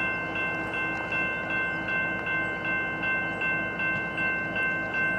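Railroad grade-crossing warning bell ringing steadily, a little over two strokes a second, over the low rumble of idling diesel locomotives.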